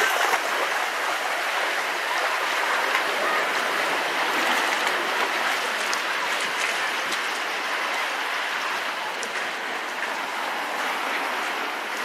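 Steady rush of seawater washing over and draining among rocks, with a few faint ticks of water.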